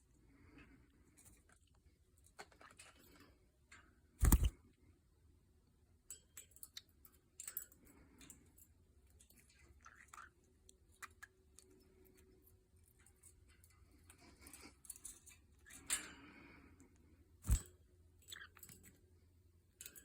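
A small pet bird pecking and chewing, making scattered soft clicks, scratches and crunches, with two loud sharp knocks: one about four seconds in and one near the end.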